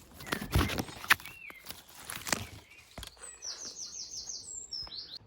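Rustling and handling noise with a sharp click, then a small bird singing a quick trill of about seven high notes, ending in a falling whistle.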